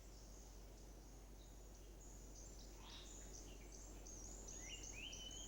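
Faint woodland bird calls: many short high chirps and whistles, with a run of stepped whistled notes near the end, over a steady low hum.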